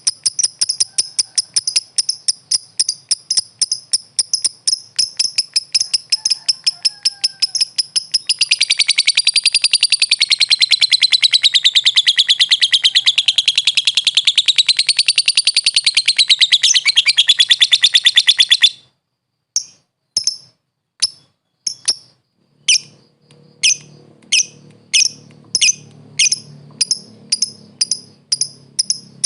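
Lovebird singing: a quick run of high, evenly repeated chirps, then a long unbroken warbling trill that wavers up and down in pitch for about ten seconds and cuts off suddenly. After a short pause, separate chirps start again, coming faster and faster.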